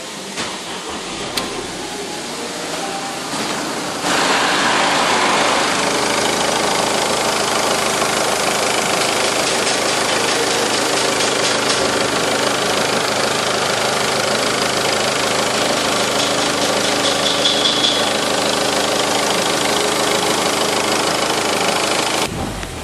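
2010 Ford Fiesta's 1.6 turbo-diesel four-cylinder engine idling steadily. It is heard first from inside the cabin, then much louder close up at the open engine bay from about four seconds in.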